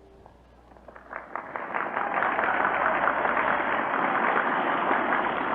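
Crowd applauding, rising from scattered claps about a second in to steady, dense applause.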